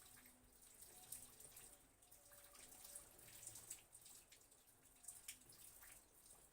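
Faint rain falling, with scattered separate drops ticking through a steady hiss.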